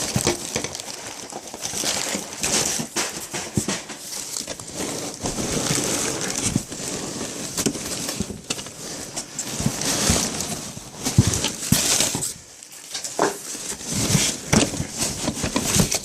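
Polystyrene packing peanuts and packaging rustling and crackling as hands dig through a cardboard box, with scattered small knocks, easing briefly about twelve seconds in.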